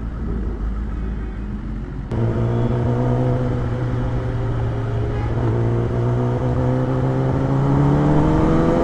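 A superbike's engine running steadily while riding in traffic, with a sharp click about two seconds in, after which the engine tone stands out more strongly. Its pitch creeps up toward the end as the revs gradually rise.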